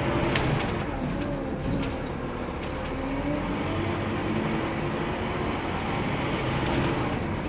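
Scania K230UB Wright Solar bus's diesel engine running steadily under way, its note slowly rising and falling, with a couple of sharp clicks near the start.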